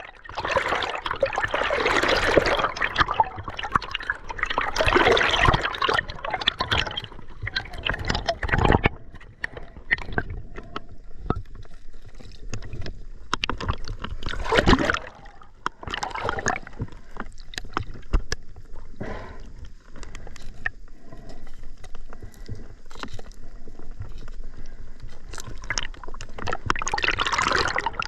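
River water splashing and gurgling in irregular surges, with scattered small knocks.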